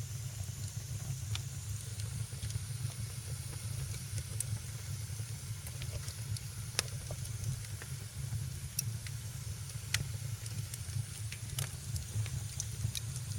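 Wood fire crackling in a fireplace: a steady low rumble and hiss with scattered sharp pops and snaps every second or so.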